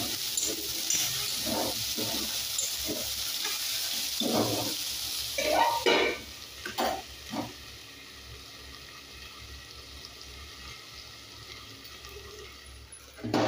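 Chopped okra sizzling in hot oil in a metal kadhai as a spatula stirs and scrapes through it. About six seconds in, a metal plate is set over the pan as a lid with a few clinks, and the sizzle drops to a faint muffled hiss as the okra is left to soften in its own steam.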